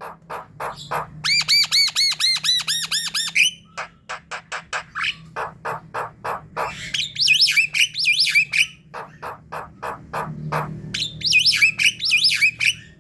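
A flock of Javan mynas (jalak kebo) calling: a fast run of harsh, rasping chatter notes, broken three times by runs of quick, looping whistled notes.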